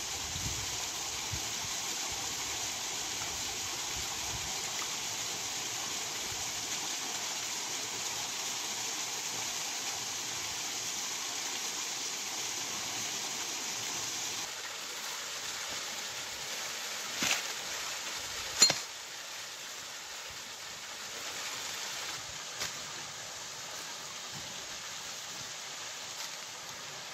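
Steady rush of water from a small waterfall and stream, dropping slightly in level about halfway through. A few sharp clicks or knocks cut through it, the loudest about two-thirds of the way in.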